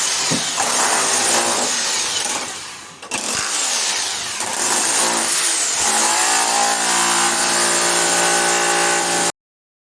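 Power tool running and cutting, its whine dipping under load and then holding steady; the sound breaks off about three seconds in, resumes, and stops abruptly near the end.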